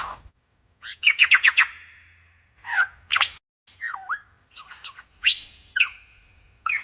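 A bird calling: a quick run of about five chirps about a second in, followed by scattered shorter calls and whistled notes that slide in pitch.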